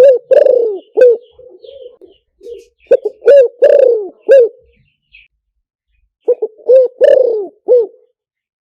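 Spotted dove cooing: three phrases of several low coos each, about three seconds apart.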